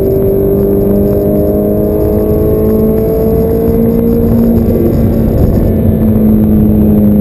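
Ferrari F430's V8 engine heard from inside the cabin, pulling hard with a slowly rising pitch for about four seconds, then holding a steadier note.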